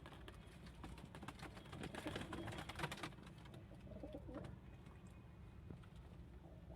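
Domestic pigeons cooing softly, with a run of quick clicks and scuffling about two seconds in.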